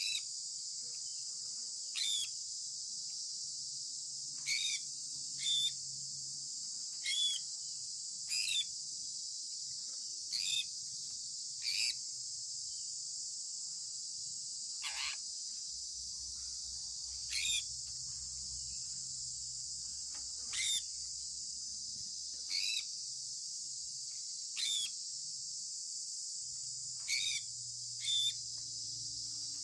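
Short bird chirps, each sliding downward in pitch, repeating every one to two seconds over a steady high drone of insects.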